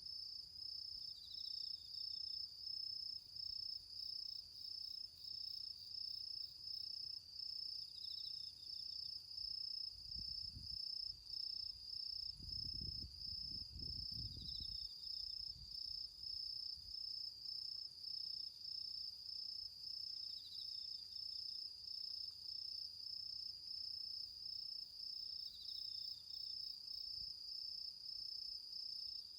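Autumn crickets singing in a steady high trill, broken by short gaps about once a second, with a second insect giving short chirps every few seconds. A low rumble comes in about ten seconds in and fades by about fifteen seconds.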